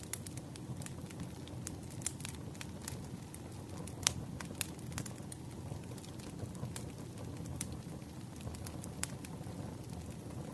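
Campfire crackling: a steady low rumble of burning wood with frequent irregular sharp pops and crackles, one louder pop about four seconds in.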